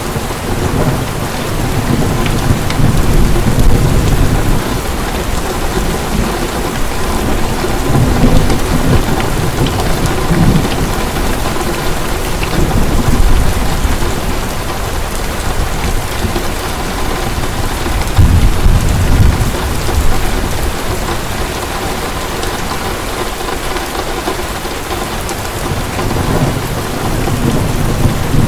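Heavy rain falling steadily, with rolls of thunder swelling and fading several times underneath.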